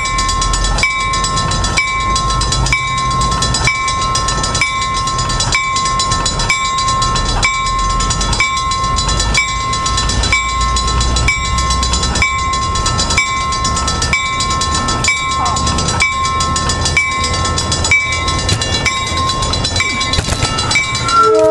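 Railroad grade-crossing warning bell ringing at an even beat a little over once a second, over the low rumble of train equipment.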